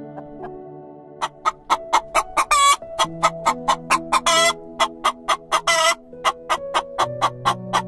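Chickens clucking: a quick run of short clucks, about four a second, starting about a second in, with three longer drawn-out calls mixed in. Soft background music with sustained tones plays underneath.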